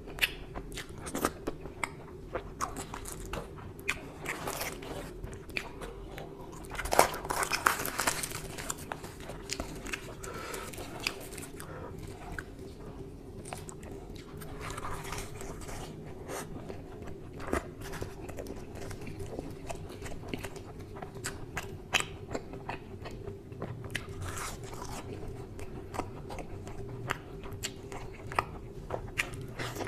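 Close-miked eating of mutton curry with luchi by hand: irregular wet chewing and biting clicks, with a louder, denser flurry about seven seconds in. A steady low hum runs underneath.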